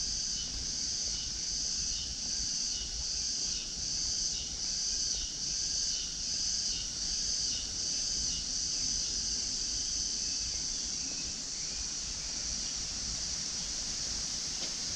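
High-pitched insect chorus that pulses about twice a second, then settles into a steady drone about nine seconds in.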